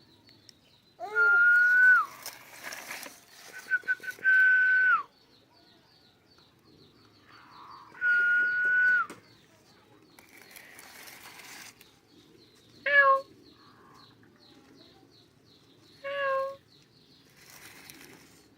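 Three loud, long whistles, each held at one pitch for about a second and dropping off at the end, followed later by two short chirps, over a faint fast ticking.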